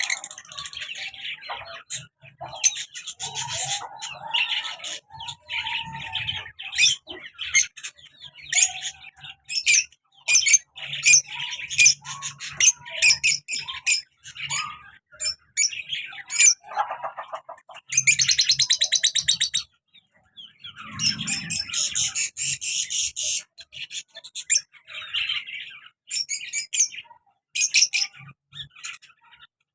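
Pet lovebirds chirping and chattering in many short, high calls, with a fast buzzy trill a little past the middle.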